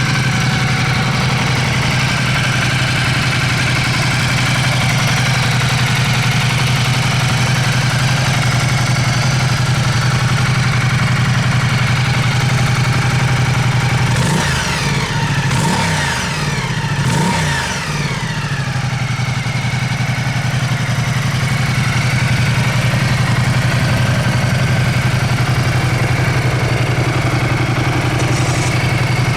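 Ducati Multistrada 1200 S's L-twin engine idling steadily through a Termignoni exhaust. About halfway through come a few quick revs, the pitch rising and falling, before it settles back to idle.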